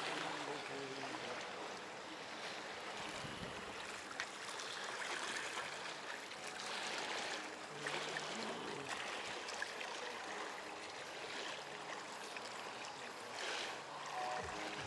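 Small sea waves washing onto a beach, a steady wash that swells up a few times.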